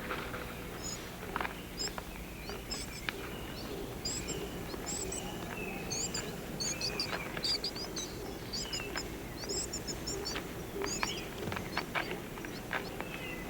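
Rain forest ambience: many short, high bird chirps repeating throughout, over a steady low background, with scattered light clicks.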